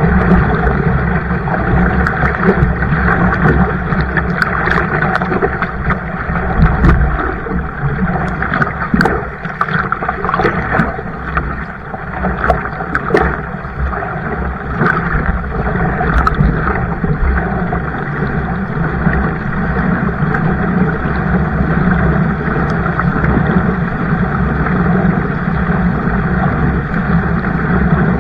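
Kayak moving on the water: a steady, loud rush of water and wind over the microphone, with scattered small clicks and knocks in the first half.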